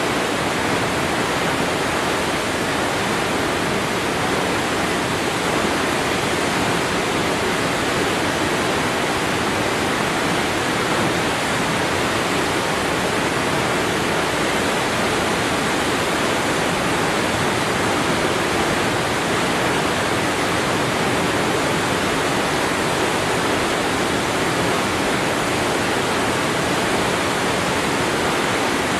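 Waterfall: falling water rushing in a steady, even wash of noise that never changes.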